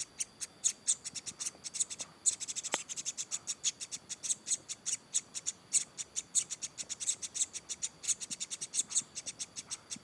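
Black-naped monarch chicks cheeping in a rapid series of short, high-pitched chirps, several a second and without a break.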